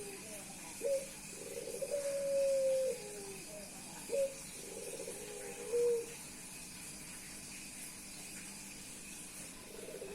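Male Puter Pelung dove, a Barbary dove type, cooing to a female. It gives two phrases, each a short note followed by a long, held coo that steps down in pitch at its end.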